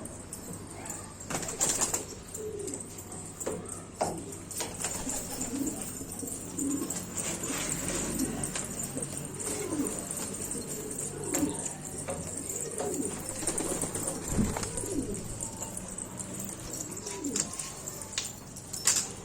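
Domestic pigeons cooing, a run of low rolling coos one after another, with a few sharp clicks and a steady high hiss underneath.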